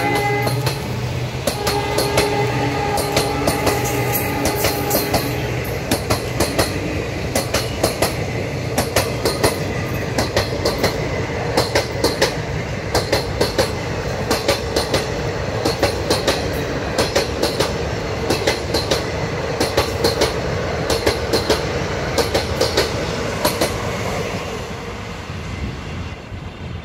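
Passenger coaches of an express train rushing past, their wheels clattering in quick groups over the rail joints, with a steady tone for a few seconds near the start. The clatter fades near the end as the train recedes.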